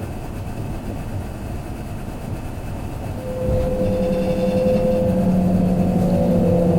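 Kintetsu limited express train running, heard from inside the carriage: a steady rumble of the wheels on the rails. About three seconds in it gets louder and a hum of several steady tones from the train's motors sets in, starting to climb slightly near the end.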